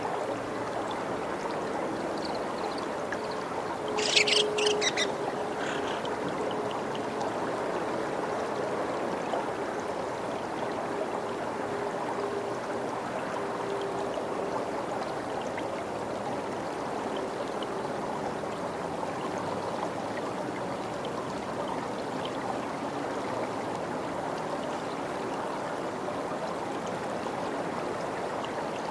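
Steady running water, like a stream or a small weir. About four seconds in there is a brief cluster of sharp, high-pitched sounds.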